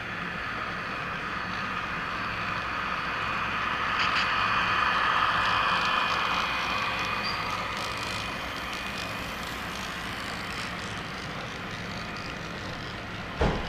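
HO scale model train running along the track, its sound swelling for a few seconds as it passes closest and then fading. A single sharp knock near the end.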